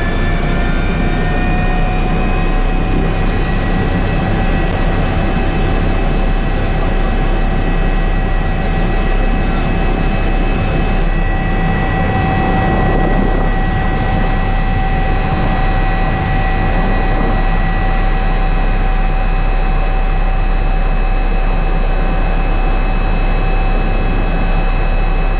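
Helicopter turbine engines and rotor running: a loud, steady rushing noise with a high whine over it. The whine rises slightly in pitch in the first couple of seconds, then holds steady.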